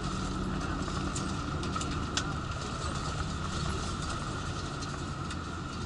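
A vehicle engine idles with a steady low hum, with a few faint clicks over it.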